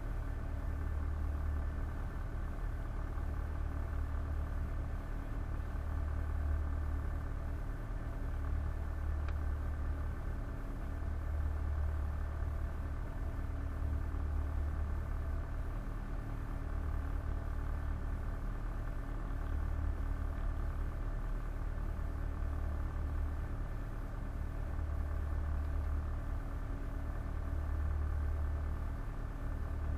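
Boat engine running at a steady speed: a low drone that swells and eases every few seconds, under a steady hum of several higher tones.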